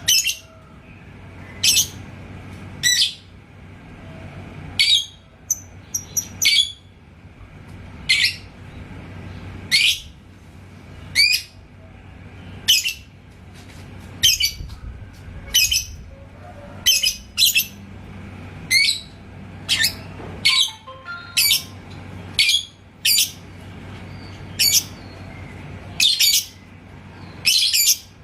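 A lovebird gives short, shrill, high-pitched calls, one about every second or so. Around five to six seconds in there is a quicker run of small notes.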